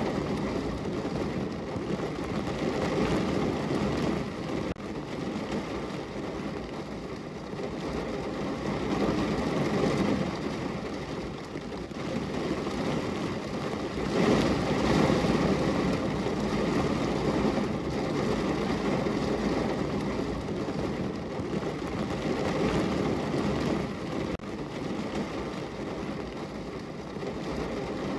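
Rain falling on a window pane, a dense steady wash of noise with a low rumble under it that swells about ten seconds in and again near the middle.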